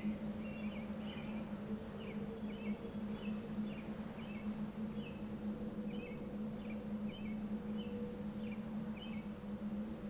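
A small bird chirping outdoors: short high notes repeated a few times a second in loose runs, with brief pauses. Under it runs a steady low hum and faint background noise.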